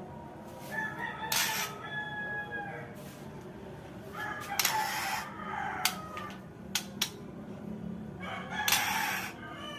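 White-rumped shama (murai batu Borneo) singing a varied, tutored song: clear whistled phrases broken by several loud harsh rasping bursts and a few sharp clicking notes.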